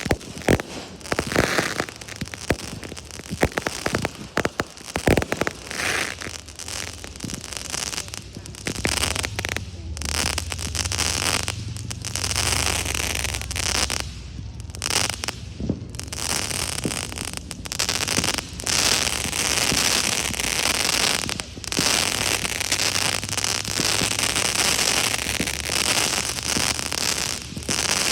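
Fireworks going off: a run of sharp bangs over the first several seconds, then from about twelve seconds in a dense, continuous crackle over a low rumble.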